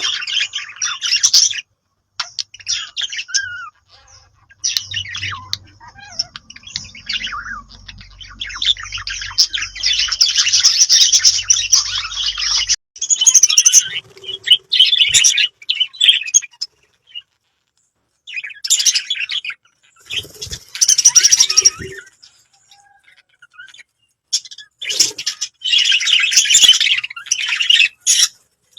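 Budgerigars chattering and warbling: rapid, scratchy twittering in bursts of a few seconds, broken by short silent gaps.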